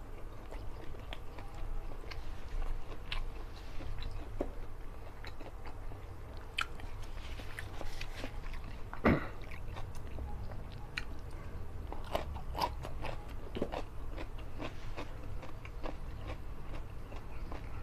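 Close-miked chewing and mouth sounds of a person eating curried fish head and rice by hand, with many short scattered clicks and one sharper click a little past halfway.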